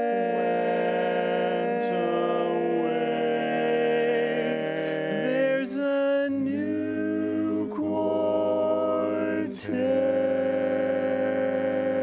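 Male barbershop quartet singing a cappella, holding long sustained four-part chords that change several times.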